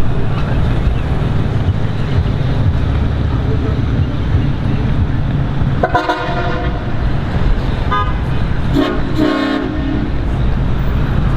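A vehicle horn honks twice, briefly about halfway through and again about three seconds later, over a steady low rumble of vehicles.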